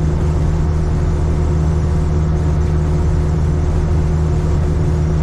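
Cat 3406E inline-six diesel of a Freightliner FLD120 heard from inside the cab, running steadily at highway cruise under cruise control, with a constant low drone and road noise.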